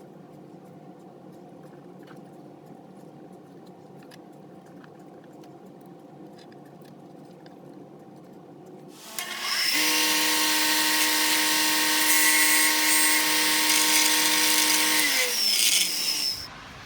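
A power tool in a workshop starts about nine seconds in and runs at steady speed for about six seconds, a whine with a strong high hiss. It then winds down and stops near the end. Before it starts there is only a faint steady hum with a few light ticks.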